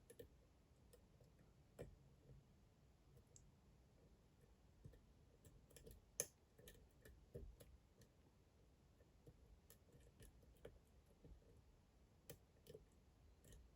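Faint, scattered clicks of a flag pick working the pins inside a Dom IX Twinstar lock cylinder, with one sharper click about six seconds in.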